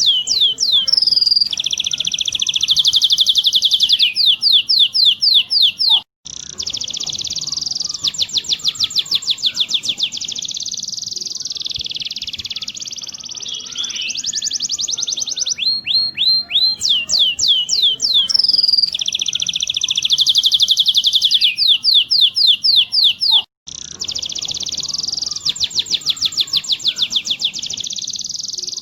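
Domestic canary singing without pause: fast rolling trills of rapidly repeated notes alternating with sweeping whistled notes. The song drops out for an instant twice.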